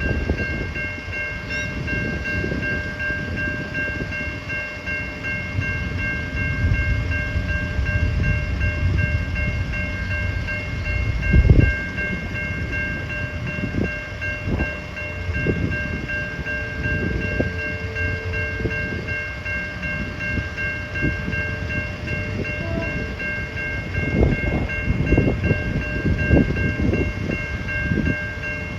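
A level crossing's electronic bell ringing steadily while a passing train rumbles with a run of wheel knocks on the rails. There is one louder knock a little before halfway.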